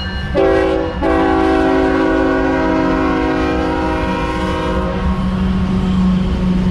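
Diesel freight locomotive air horn sounding a multi-note chord in two blasts, a short one and then a long one that cuts off about five seconds in, over the steady low rumble of the passing freight train.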